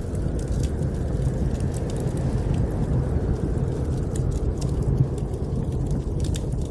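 Steady low rumble of blizzard wind, with a wood fire crackling in a fireplace in scattered sharp little pops.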